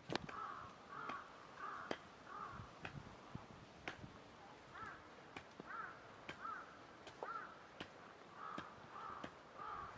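A crow cawing in three runs of three or four caws, with scattered sharp clicks and snaps throughout.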